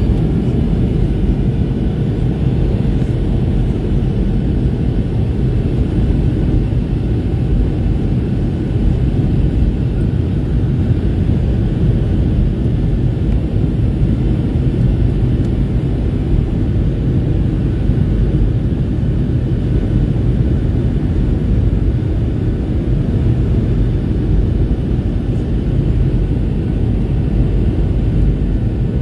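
Airliner cabin noise heard from inside the cabin: a steady, loud low rumble of engines and rushing air, with a faint steady hum, during the landing.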